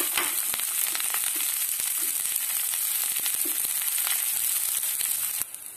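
Sliced shallots, garlic, ginger and green chillies sizzling in hot oil in a nonstick kadai: a steady hiss with scattered pops and crackles. The sizzle drops away sharply near the end.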